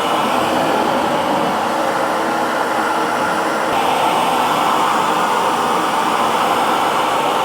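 Hair dryer running continuously, a steady even whooshing hum used as sleep noise. Its tone brightens slightly about halfway through.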